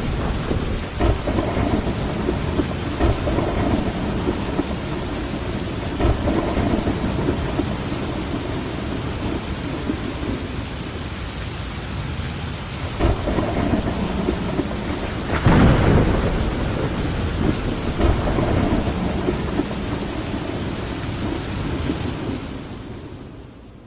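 Steady heavy rain on a window with thunder rumbling again and again, one louder peal about two-thirds of the way through. The whole sound fades out near the end.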